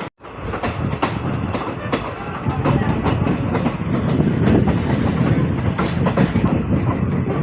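Train running along the track, its wheels clattering over the rail joints in an irregular clickety-clack over a steady rumble. The audio drops out for a split second at the start, and the running noise grows louder about two and a half seconds in.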